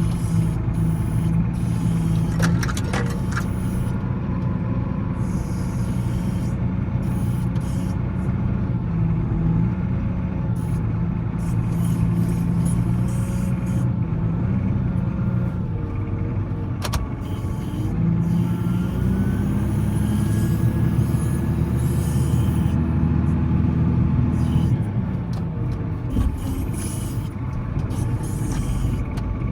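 Volvo L70C wheel loader's diesel engine running while plowing snow, its pitch shifting up and down and growing louder for several seconds about two-thirds of the way through. A few clicks early on and one sharp click near the middle.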